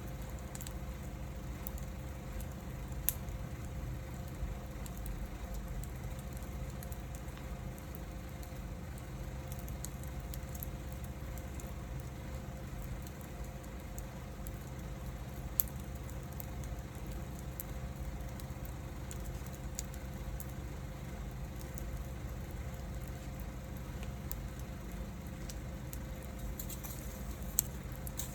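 Wood fire burning steadily with a low rumble and hiss, and a few sharp pops from the firewood, three standing out over the stretch.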